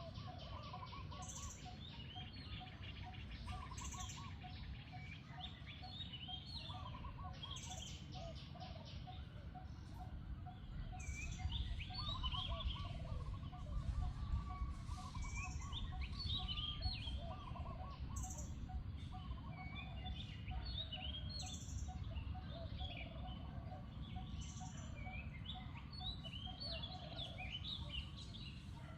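Several birds chirping and calling over a steady low rumble, with a short high note repeating about every second and a half.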